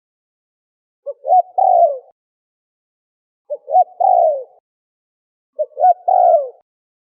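Spotted dove (terkukur) cooing three times, evenly spaced. Each coo is two short notes followed by a longer note that falls in pitch, with silence between the calls.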